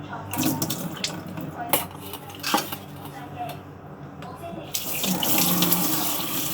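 Kitchen tap turned on about five seconds in, water running steadily into the sink. Before it come a few sharp clicks and knocks of things being handled at the counter.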